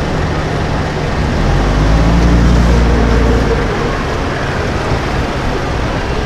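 A vehicle engine accelerating, its pitch rising and its sound swelling to its loudest two to three seconds in, then fading back into steady street traffic noise.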